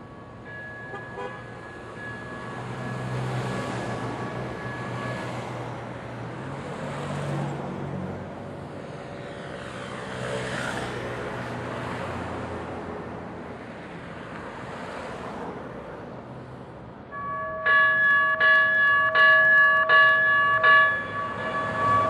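Light rail train running through the station with a steady rumble. About 17 seconds in, the train's gong bell starts ringing loudly, struck over and over.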